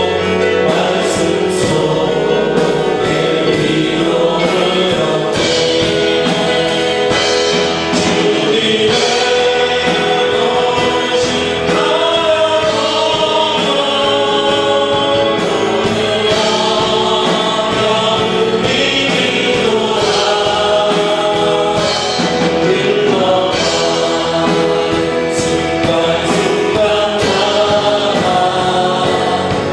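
Many voices singing a Christian worship song together, with instrumental accompaniment and a steady beat.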